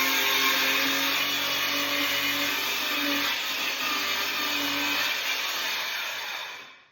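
Circular saw plunge-cutting through a kitchen worktop at full blade depth, its motor running steadily under load, then dying away near the end.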